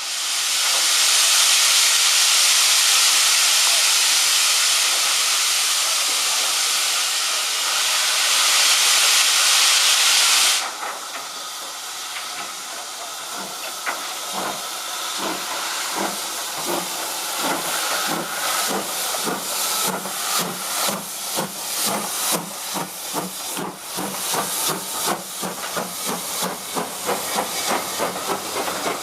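SR U Class steam locomotive starting away: a loud steady hiss of escaping steam cuts off suddenly about ten seconds in. Then its exhaust beats begin, slow at first and quickening steadily as the engine gathers speed.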